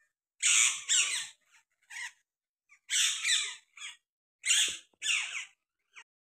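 Birds squawking: a series of about ten short, harsh, shrill calls, mostly in loose pairs, with brief silences between.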